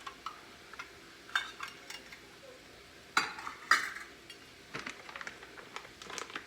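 Measuring cup scooping brown sugar: scattered light clicks and clinks, with two louder scraping scoops a little after three seconds in, then a run of small ticks and taps.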